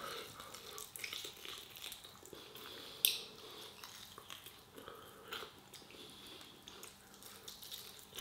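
A person gnawing meat off a pork spare rib held in the fingers: faint wet chewing and lip smacks, with one sharper click about three seconds in.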